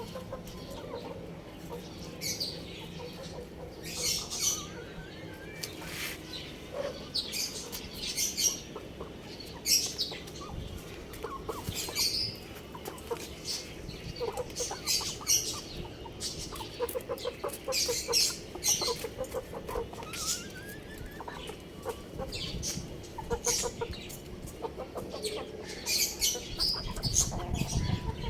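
Young chickens chirping and clucking: many short, high chirps scattered throughout, with some lower clucks.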